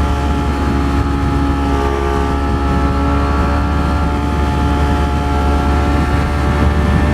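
Ducati Streetfighter V4 S's V4 engine running at a steady cruising speed, pitch held level, heard from the rider with road and wind noise mixed in.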